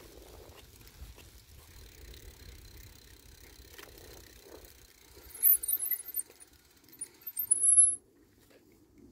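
Bicycle rolling with a low rattle, then its brakes squealing in several loud, high-pitched bursts over about three seconds as it slows to a stop. The squeal cuts off sharply near the end.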